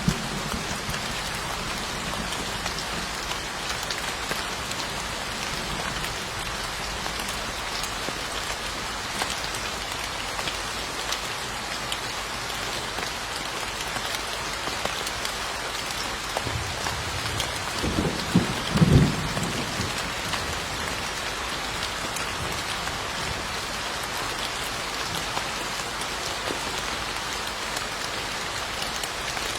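Steady rain falling and pattering on surfaces. A short low rumble of thunder swells up a little past the middle and fades within a few seconds.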